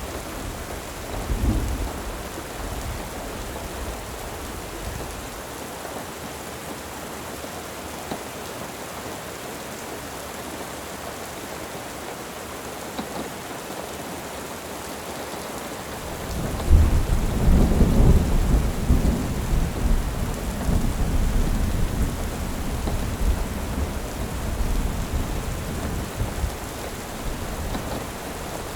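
Steady rain with rolling thunder: a low rumble fades away in the first couple of seconds, then a louder rumble breaks about two-thirds of the way through and dies away slowly.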